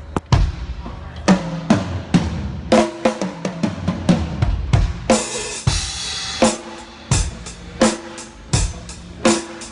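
Acoustic drum kit being played in a soundcheck: bass drum and snare hits in a loose beat, with a cymbal crash ringing out about five seconds in.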